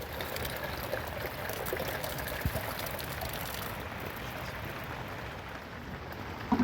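Steady rain with water running and trickling. A short knock near the end.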